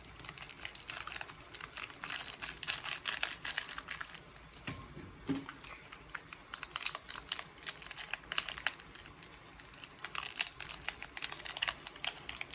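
Stock cubes being unwrapped from their foil and broken up by hand, an irregular crinkling and crackling.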